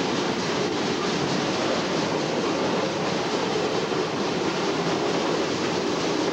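Train rolling along the track: a steady rumble with no break or clear beat.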